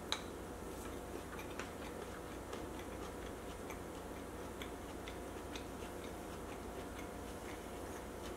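Close-miked chewing of a mouthful of food: small, irregular wet clicks of the mouth over a faint steady hum, with one sharper click right at the start as the wooden spoon leaves the mouth.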